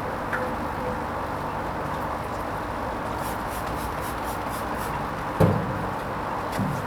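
Hoover Vision HVP16 washing machine running its Silks wash programme: a steady machine noise with one low thump about five and a half seconds in.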